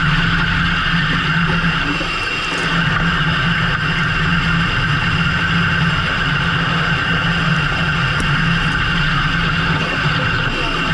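A fishing boat's engine running steadily under load, a constant low hum with a steady higher whine above it.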